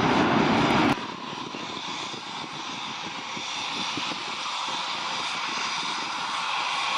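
Military aircraft engines during a mass take-off. The sound is loud at first, drops suddenly to a quieter steady noise about a second in, then slowly grows louder again.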